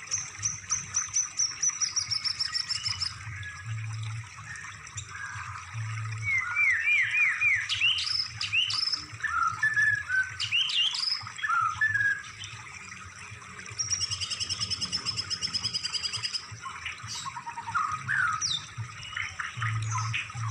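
Songbird song: a varied run of chirps, falling whistled notes and rapid high trills. One trill lasts about three seconds at the start, and another comes near the middle, from about 14 to 16 seconds.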